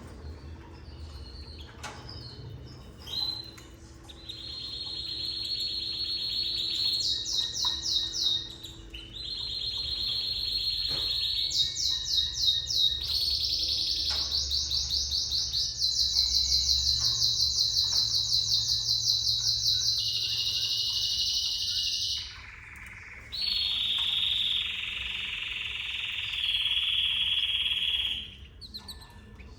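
Domestic canary singing: a long song of rapid, high trills and rolled phrases, one after another with brief pauses between them.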